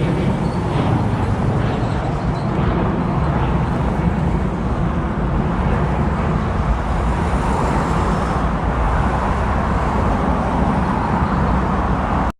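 Airliner jet engines running, a steady loud rumble.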